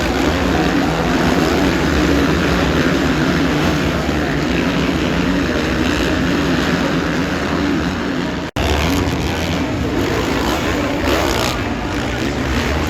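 Dirt bike engines running loudly and steadily during a race, with a sudden momentary break in the sound about two-thirds of the way through.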